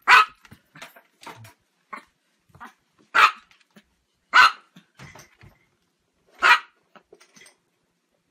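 Chihuahua barking: four loud, short barks a second or two apart, with fainter barks and yips between them.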